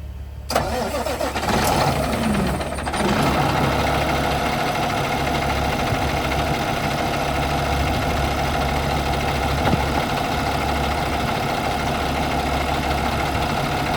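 Diesel dump truck engine cranking for about two and a half seconds, then catching and settling into a steady idle.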